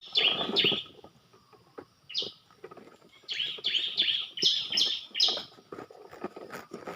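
Bar-winged prinia (ciblek) giving its sharp 'tembakan' call: loud, quick falling notes, two near the start, one a little after two seconds, then a fast run of six.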